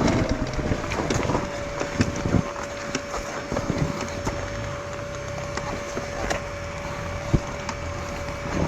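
Enduro motorcycle engine running at a steady, unchanging note while twigs and branches crack and snap sharply under the bike, a loud crack about two seconds in and another near the end.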